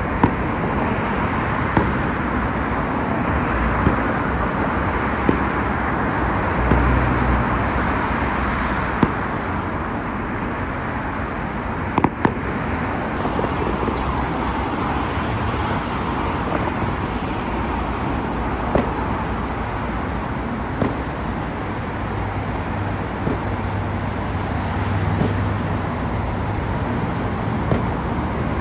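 Steady road traffic noise, with a scattered series of sharp, short bangs from fireworks going off, the loudest about halfway through.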